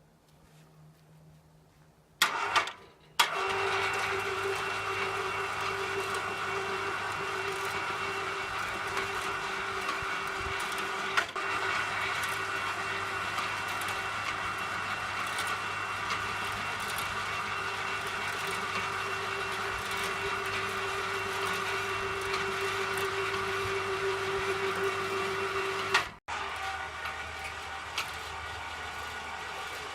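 Motor of a cargo hoist on scaffolding running steadily with a constant hum and whine, starting after a couple of knocks about two seconds in; the sound changes abruptly near the end.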